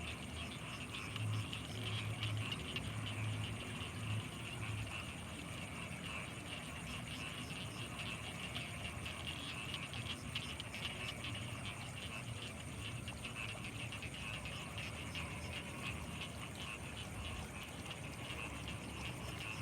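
Night chorus of frogs calling in a steady, dense mass, with a constant high-pitched tone above it and some low pulsing calls in the first few seconds.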